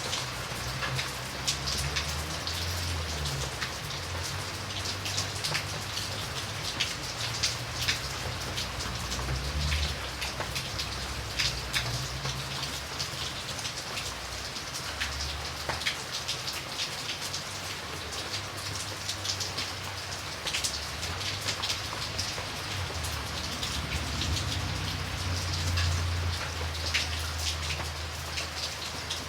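Steady rain falling, with many individual drops ticking sharply on a surface over the even hiss. Underneath, a low rumble swells and fades several times.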